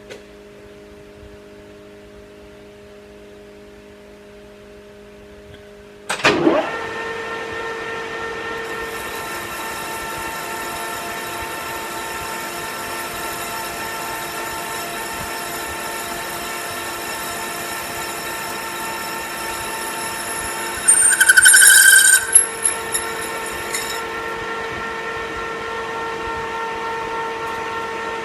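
Metal lathe starting up about six seconds in, then running with a steady whine of several tones while cutting a cold-rolled steel workpiece. About two-thirds of the way through comes a loud, high screech of the tool on the steel, lasting about a second and a half.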